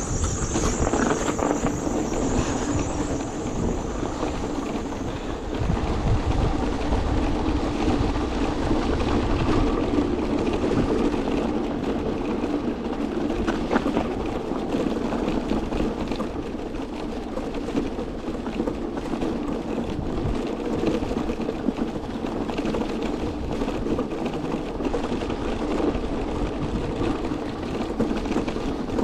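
Steady running noise of an electric vehicle being ridden through a snowstorm: wind on the microphone and a low rumble, with a steady hum underneath.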